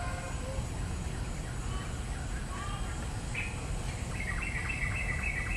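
Birds calling over a steady low rumble, with a run of quick, repeated high chirps about four seconds in.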